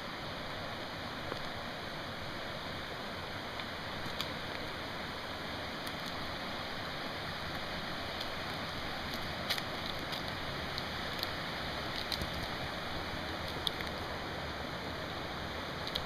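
Steady rush of falling water, with a few brief sharp clicks scattered over it.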